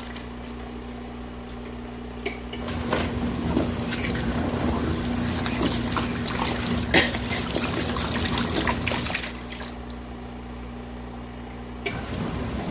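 A portable washing machine's motor hums steadily while water churns, sloshes and trickles inside the tub, louder through the middle. Near the end the motor stops with a click.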